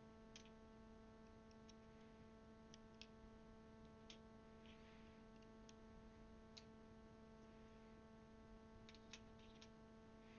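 Near silence with a steady electrical hum, broken by a dozen or so faint, sharp, irregular clicks of keycaps being handled and pressed onto mechanical keyboard switches, several of them close together near the end.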